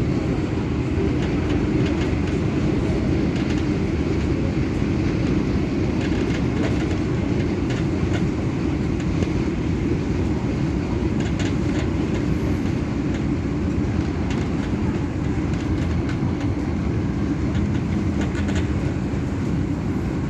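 Steady running rumble of an MTR Adtranz-CAF EMU (A-train) heard from on board while it travels between stations, with a few light ticks scattered through it.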